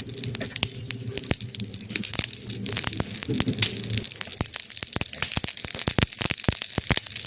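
Campfire burning, the wood crackling with many sharp pops over a steady hiss. A low rumble underneath cuts off about four seconds in, and the pops come thicker after it.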